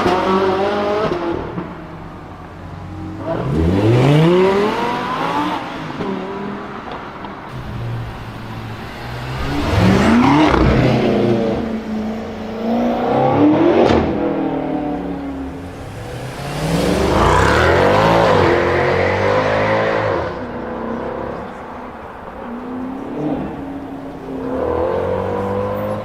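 Loud car exhausts as engines accelerate hard, the engine note rising through the revs about six times, with quieter stretches between the surges.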